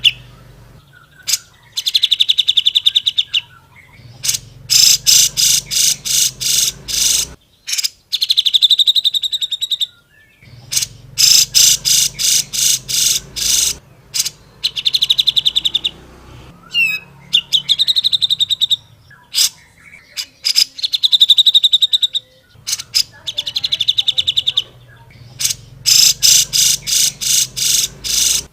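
A cucak jenggot, a bulbul, singing loud chattering phrases of rapidly repeated notes. Each phrase lasts about one to two seconds, with short pauses between them.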